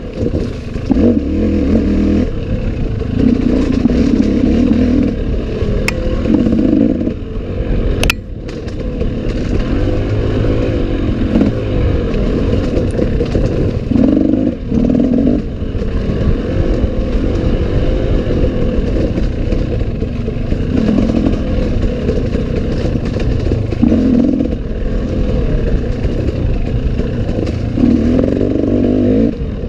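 Enduro dirt bike engine running under load on a forest trail, the revs rising and falling every second or two as the throttle is worked, with rattling from the bike over rough ground and a sharp knock about eight seconds in.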